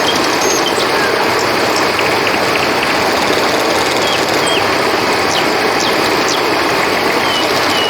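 River water rushing steadily, with scattered short high chirps over it.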